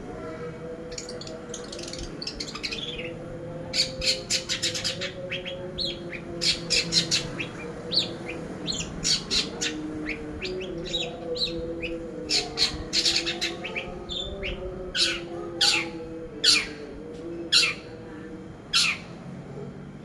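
Long-tailed shrike (cendet) singing a rapid, varied string of short, sharp chirps and squawky notes in quick clusters, with a few louder single notes near the end, over a steady low wavering hum.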